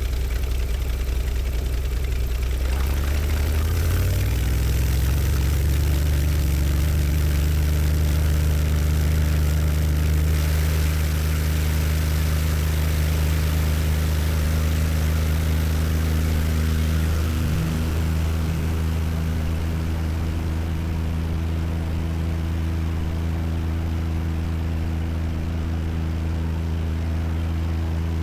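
Stinson light aircraft's piston engine and propeller running steadily, with the engine speed stepping up about four seconds in.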